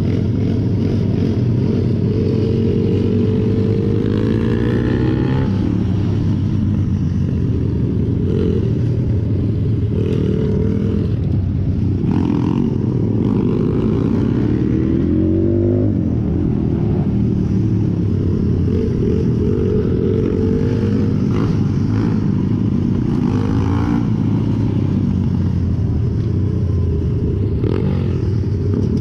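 Pit bike engine running under way, its pitch rising and dropping back several times as the bike accelerates and eases off.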